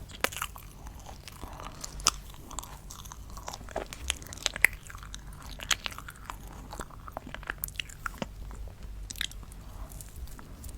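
Close-miked crunching and chewing: someone biting into something crisp, with irregular sharp crunches throughout, the loudest a little over four and a half seconds in.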